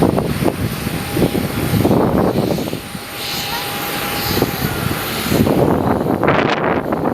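Aircraft engines running, with strong gusts of wind buffeting the microphone in irregular surges, heaviest near the end.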